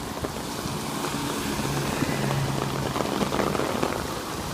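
Heavy rain pouring down hard, driven by wind. A low steady hum comes through it from about a second and a half in to about three seconds in.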